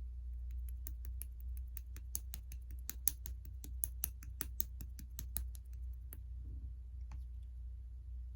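Clear glitter slime being pressed and poked by hand, giving rapid crisp clicks and pops, several a second, that stop about six seconds in. A low steady hum runs underneath.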